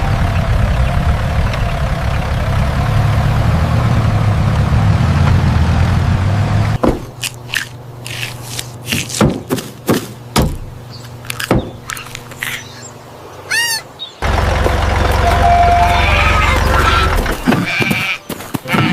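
Cartoon sound effects: a low motor-like rumble for about seven seconds, then a run of sharp knocks and clicks with a short wavering pitched call, then the rumble again for about three seconds.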